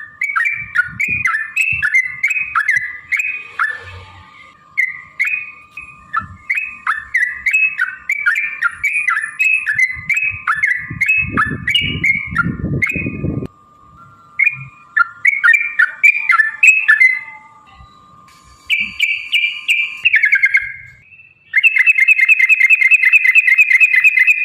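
Yellow-vented bulbul calling in quick runs of short, bubbly falling notes, with a faint steady tone underneath. Near the end the song changes to a louder, buzzing trill.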